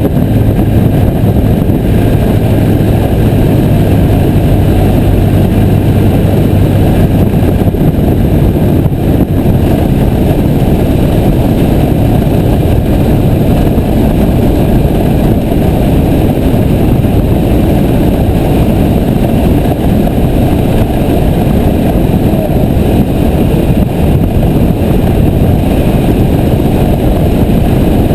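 Piper J3 Cub's engine and propeller running steadily and loud, with dense rushing noise; the low engine note shifts slightly about a third of the way through.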